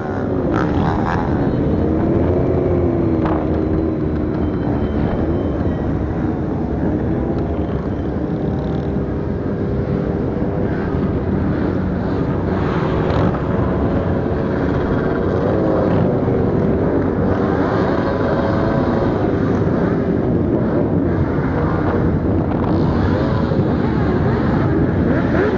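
Motorcycle riding on the road: the engine note rises and falls with throttle changes over a steady rush of wind and road noise.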